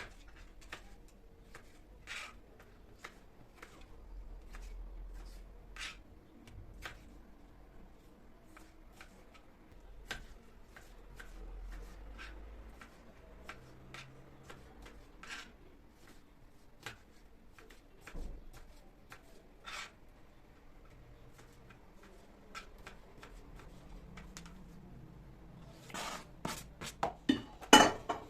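Kitchen handling sounds during food preparation: scattered light taps, clicks and soft rubbing, then a run of louder knocks and clinks near the end.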